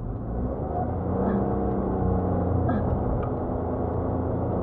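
Car engine and road noise heard inside the cabin through a dashcam's microphone: a steady low rumble, with a held engine tone for a couple of seconds partway through.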